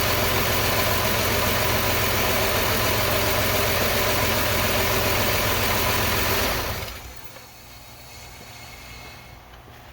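A 2003 Chrysler Town & Country's 3.8 V6 idling with a misfire, the cylinder 4 injector getting no pulse. The engine sound cuts off about seven seconds in, leaving quiet shop background.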